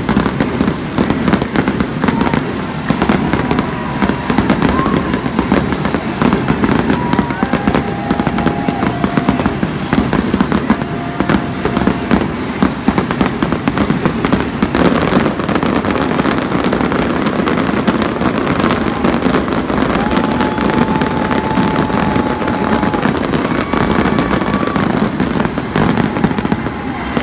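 Aerial fireworks display: a dense, continuous barrage of shell bursts and crackling, many reports overlapping in quick succession.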